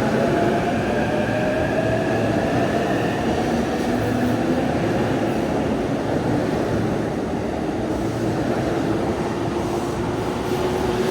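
Electric commuter train running past at the platform: a steady rumble under motor tones that slowly glide in pitch, one falling and one rising.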